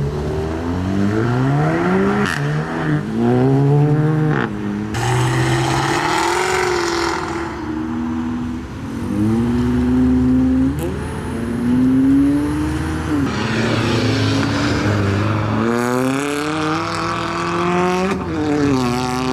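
Modified cars accelerating away one after another, engines revving up and dropping in pitch at each gear change, several passing in turn.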